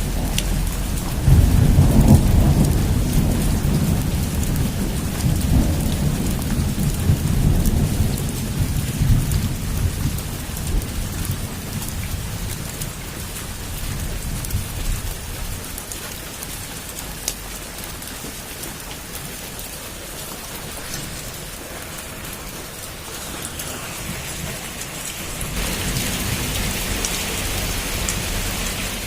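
Heavy rain falling steadily, with a long rumble of thunder that starts about a second in and slowly dies away over some ten seconds. The rain grows louder near the end.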